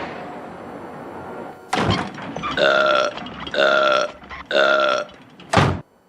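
Three drawn-out, voice-like sounds about a second apart, each held for about half a second, following a fading rushing noise and a sudden burst; a short loud burst comes near the end.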